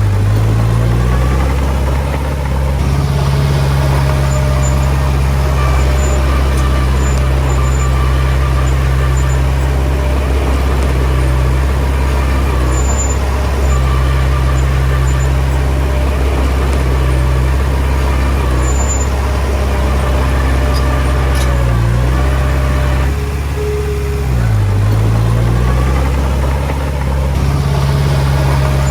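Heavy diesel engine of earthmoving machinery running steadily and loud. Its pitch dips and recovers briefly about a second in, and again a few seconds before the end.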